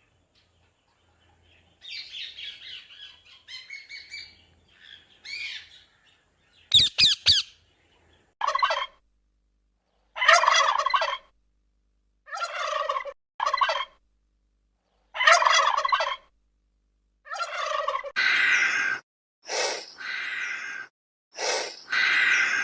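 Domestic fowl calling: soft chattering at first, then a sharp loud call and a series of loud calls about a second long, one every couple of seconds, crowding closer together near the end.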